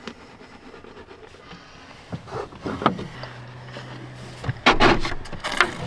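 Knocks and clatters of objects being handled, loudest in a cluster about five seconds in, with a short low hum just before it.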